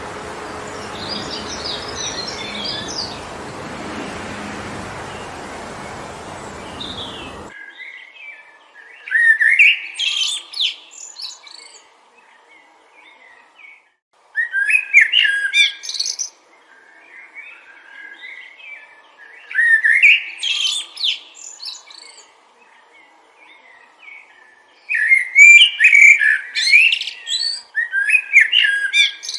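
Wind rushing through trees, with faint bird chirps, cuts off abruptly about seven seconds in. Then a songbird sings a short, loud, twittering phrase about every five seconds, four times, with softer calls in between.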